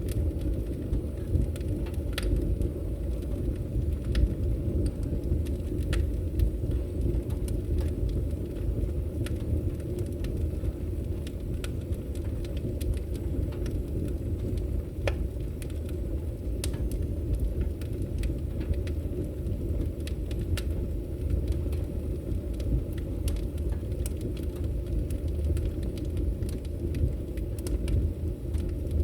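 Wood fire burning in a fireplace: a steady low rumble of flames with scattered sharp crackles and pops, several of them louder, through the whole stretch.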